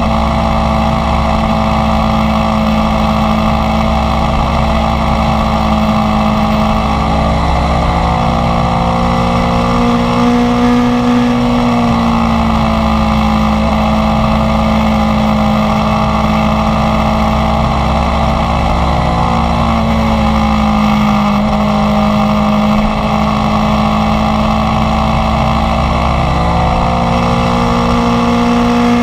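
Inline-four sport motorcycle engine running on the move at a fairly steady speed. Its pitch rises and falls gently a few times with small throttle changes, climbing around a third of the way in and dipping again shortly after, then once more after the middle.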